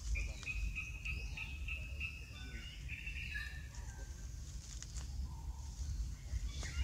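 Outdoor bird calls: a run of short, high, steady notes over the first three seconds, then fainter chirps, over a constant low rumble.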